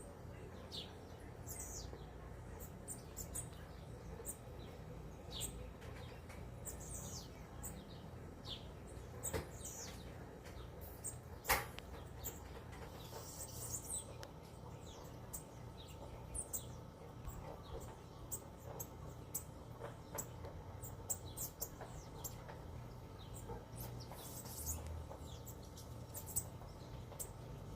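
Small birds chirping: short, high, irregular chirps scattered throughout, with a single sharp click a little before halfway.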